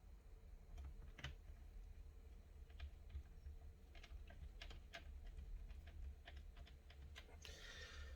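Faint, irregular clicks and taps of plastic laptop casing parts being handled and fitted together while a laptop screen is reassembled, with a short rustle near the end.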